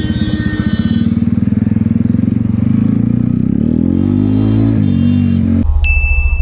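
Kawasaki Ninja ZX-10R inline-four engine running. It revs up and falls back about four seconds in. Near the end the sound switches abruptly to a deeper, heavier engine note.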